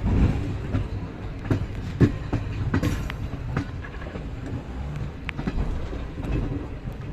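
Passenger express train running on the rails: a steady low rumble with irregular knocks and clicks from the wheels over the track, the loudest about two seconds in.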